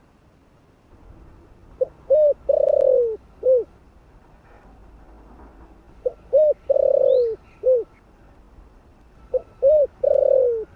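Spotted dove cooing in three repeated phrases about four seconds apart. Each phrase is two short notes, a longer falling coo and a short closing note, with faint chirps of small birds in the background.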